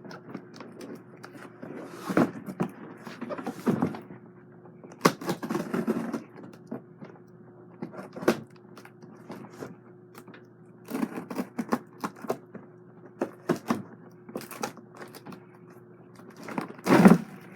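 Box and packing being handled and opened: irregular rustles, clicks and knocks, with a louder knock near the end. A faint steady hum runs underneath.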